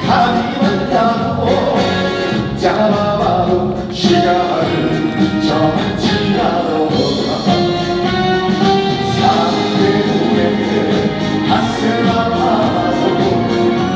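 Live trot song: a band playing with singing over it.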